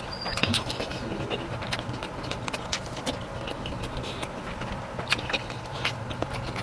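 Close-up eating sounds: irregular wet clicks and smacks of chewing, over a steady low hum.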